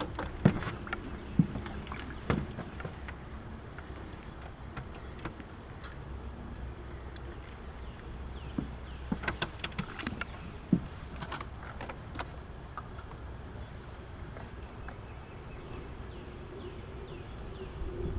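Scattered sharp knocks and clicks, three loud ones in the first few seconds and a cluster about ten seconds in, over a steady low rumble.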